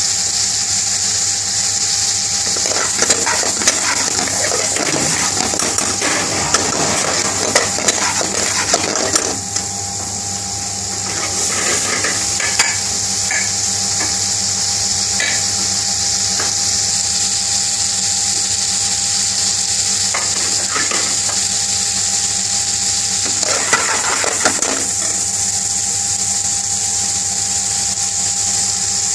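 Prawn curry sizzling and bubbling in a metal frying pan, a steady hiss, with a metal spoon scraping and clinking against the pan while stirring from about three to nine seconds in and again briefly near twenty-four seconds. A steady low hum runs underneath.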